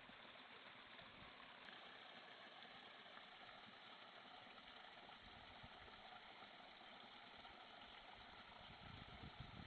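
Near silence: a faint, steady hiss, with a low rumble that swells briefly near the end.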